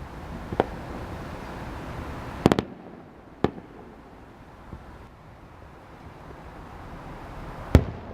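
Fireworks bursting: a sharp bang about half a second in, a quick cluster of three bangs around two and a half seconds, another a second later, and the loudest bang near the end. A steady rushing haze runs under the first few seconds.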